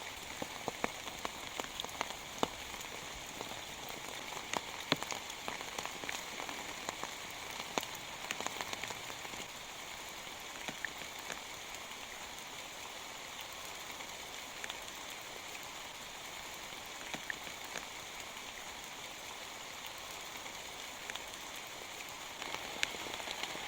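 Rain falling steadily, with individual drops hitting a surface as sharp ticks over the hiss; the ticks come thicker in the first several seconds.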